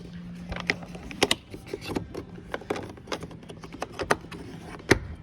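Irregular clicks and taps of plastic door trim and screws being handled and fitted, with one louder knock near the end.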